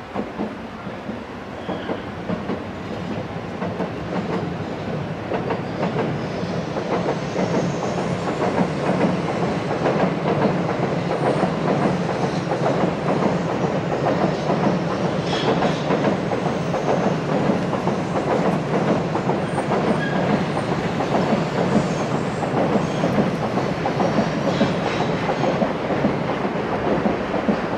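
An N700 series Shinkansen train running past on its viaduct, a continuous rumble of wheels and cars that grows louder over the first several seconds and then holds steady as the long train goes by.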